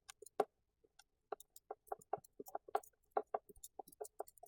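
Faint, irregular light clicks and taps, over a dozen spread unevenly across a few seconds.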